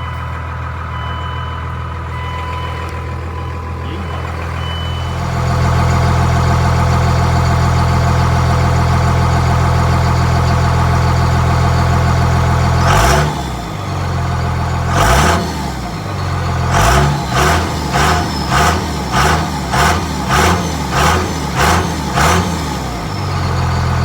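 Dodge Ram turbo-diesel pickup running through its current two-muffler exhaust. It idles, settles into a louder steady idle about five seconds in, then is revved twice and blipped about ten times in quick succession near the end.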